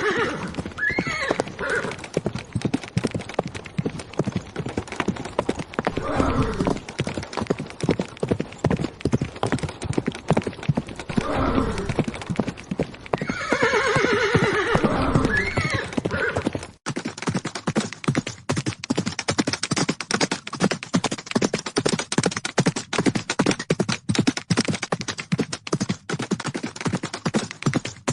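Horse hoofbeats in a rapid, steady run, with a horse whinnying about 14 seconds in. About 17 seconds in the sound cuts abruptly to a different, thinner run of quicker hoofbeats.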